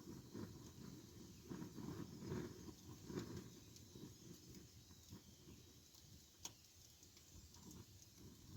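Wood campfire burning faintly: a low, uneven rumble from the flames with scattered soft crackles and one sharper pop about two-thirds of the way in.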